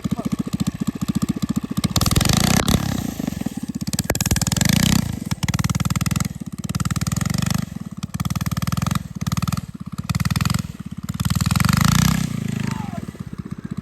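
Mini bike's small engine running as it is ridden through snow, revving up and easing off several times.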